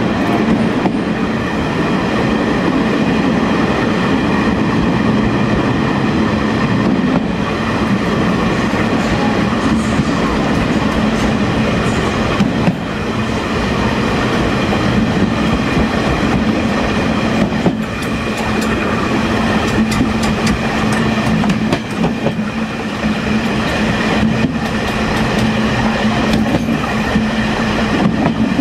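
Taiwan Railways Chu-Kuang express parlor car running on the line, heard from inside the last car: a steady rumble of wheels on rail with a constant low hum, and a sharp click now and then, a few seconds apart.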